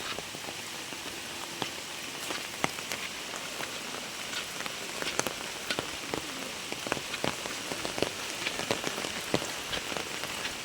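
Very heavy rain falling, a steady hiss with many sharp individual drops striking nearby surfaces.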